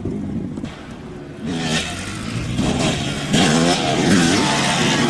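Dirt bike engine revving, its pitch rising and falling. It grows louder from about a second and a half in.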